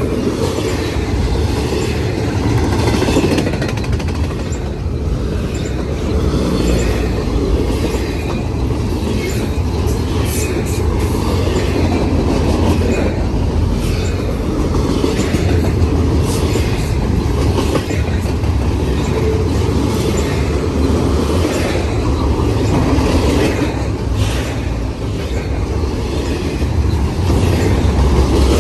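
Long CN intermodal freight train rolling past: a steady rumble of car wheels on the rails, with repeated clacks as the wheels cross rail joints.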